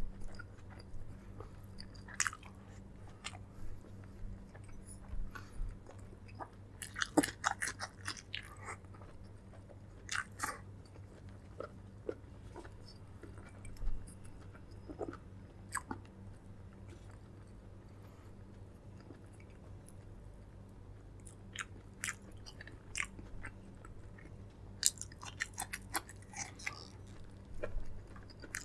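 Close-miked mouth sounds of a person chewing and biting food: irregular clicks and crunches, thickest about a quarter of the way in and again near the end. A steady low hum runs underneath.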